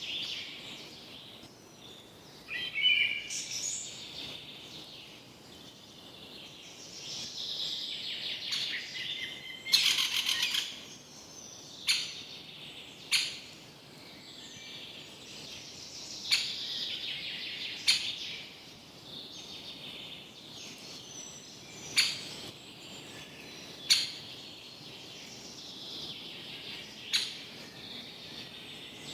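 Several forest birds calling and singing, with loud short chirps every few seconds and a brief buzzy rattle about ten seconds in.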